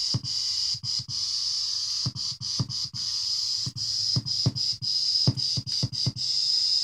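Synthetic Sound Labs Scat-Talker speech-synthesizer module playing an irregular, drum-machine-like run of short low thumps, each falling in pitch, over a steady high-pitched hiss that is chopped off between them.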